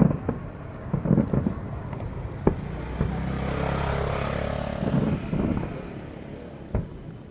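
A motor vehicle passing close by, its engine swelling and then fading over a couple of seconds. A few sharp knocks sound around it.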